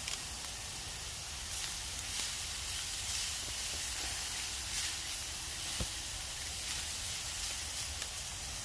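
Chopped steak and chicken sizzling in a skillet over a campfire, a steady hiss with light crackle.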